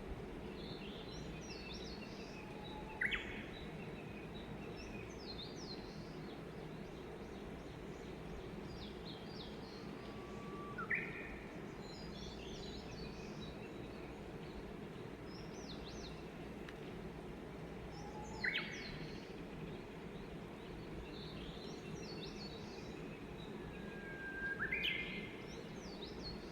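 Japanese bush warbler (uguisu) singing its "hoo-hokekyo" song four times, each a held whistle followed by a quick flourish, about every seven or eight seconds. Other small birds twitter faintly and higher in the background over a steady low ambient hiss.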